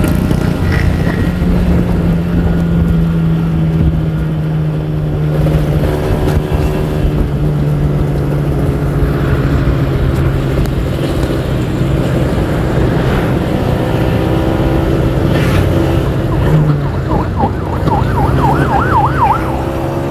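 Kawasaki Ninja R 150's two-stroke single-cylinder engine running at a fairly steady pitch. Near the end a fast-wavering, siren-like tone sounds over it for a couple of seconds.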